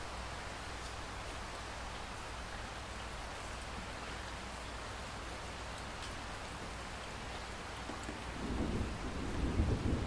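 Steady rain falling, with a low rumble of thunder building up near the end.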